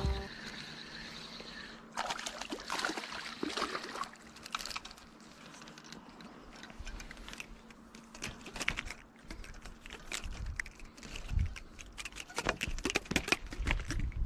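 Irregular clicks and rustling in clusters, about two seconds in and again near the end, with a faint steady high tone in the first two seconds.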